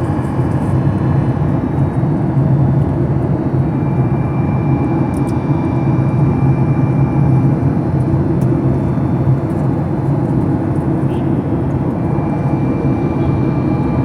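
Passenger airliner cabin noise in flight: the steady roar of the engines and airflow, with a thin high whine that fades in and out.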